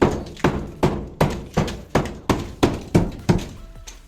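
Hand-struck blows knocking old plaster off a wall, a steady run of sharp strikes about two and a half a second, each with a short rattling decay as the plaster breaks away, easing off near the end.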